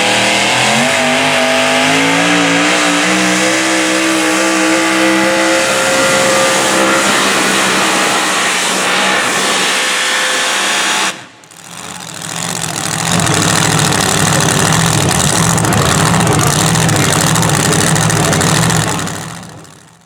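Super modified four-wheel-drive pulling truck's engine at full throttle under load, its pitch climbing over the first several seconds. After an abrupt cut about eleven seconds in, another stretch of loud, steady engine running fades out near the end.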